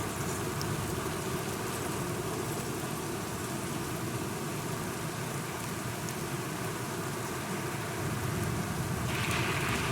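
Steady rain with a continuous low rumble under it; the rain swells louder near the end.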